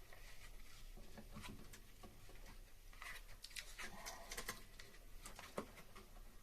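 Faint handling noise of vinyl tape being wrapped around air-conditioner refrigerant pipes: scattered small clicks and crinkly rustles, busiest in the middle, with one sharper knock near the end.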